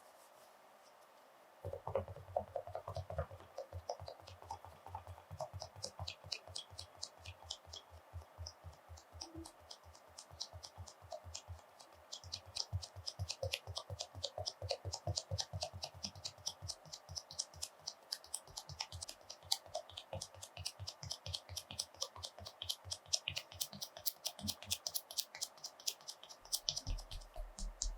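Fast, irregular run of light close-up taps and clicks, several a second, starting about two seconds in.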